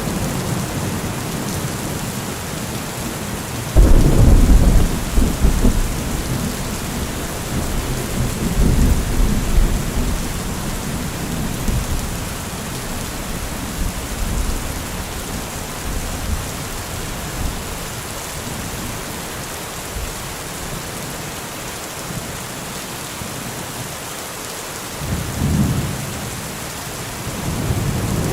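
Steady rain hissing, with thunder: a sudden loud crack and low rumble about four seconds in that rolls on for several seconds and fades, a shorter rumble near the end, and another starting to build at the close.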